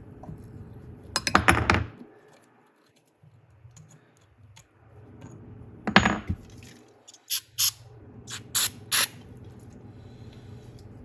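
A metal tool clinks with a short ring against the flywheel about a second in. Later, a few short hissing blasts from an aerosol spray can, carb cleaner, flush cutting oil out of the freshly tapped threads of the aluminium flywheel.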